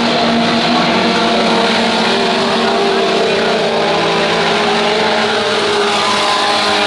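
Tough truck race engines running hard and steady, several engine notes overlapping in a continuous loud roar.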